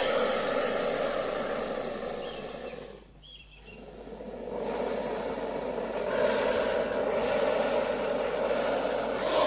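Snake hissing: a long, steady hiss that breaks off about three seconds in, then comes back and grows louder.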